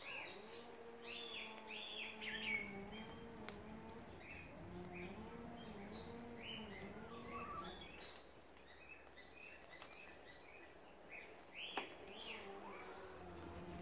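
Birds calling: many short, high chirps throughout, over a low wavering hum that fades out about eight seconds in and comes back near the end.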